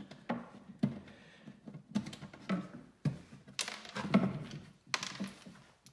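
Irregular small clicks and knocks of a cotter pin and washer being worked off the agitator shaft in the base of a Nature's Head composting toilet, metal against the plastic housing.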